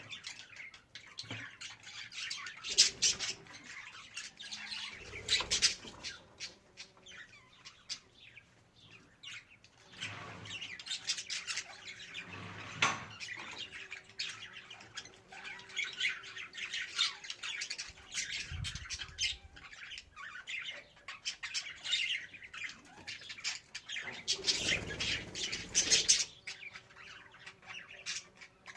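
Budgerigars chattering and warbling, with rapid chirps and harsh squawks in clusters, loudest near the end. A few low thumps sound under the calls, near the middle and near the end.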